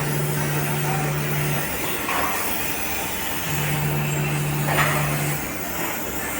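A motor hums steadily over a constant hiss. It cuts out about one and a half seconds in and runs again for about two seconds in the middle.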